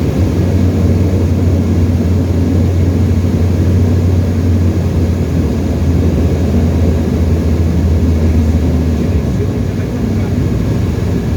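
Tecnam light aircraft's piston engine and propeller droning steadily in cruise, heard from inside the cabin, with a slight dip in level a little before the end.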